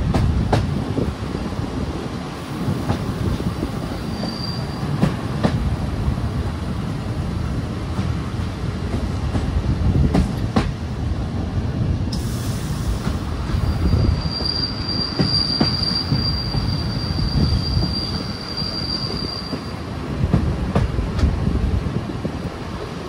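A passenger train rolling slowly into a station, with a steady low rumble and a few sharp clacks from the wheels. A high steady wheel squeal comes briefly about four seconds in, then again for about five seconds past the middle. A short hiss sounds about twelve seconds in.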